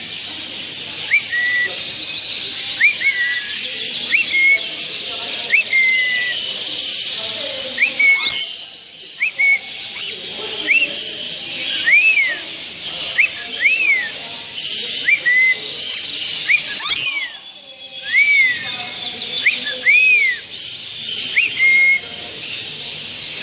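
Many small birds chirping and twittering continuously, with a clear whistle repeated in short rising-and-falling notes. A sharp click comes twice, about 8 and 17 seconds in, each followed by a brief lull in the chatter.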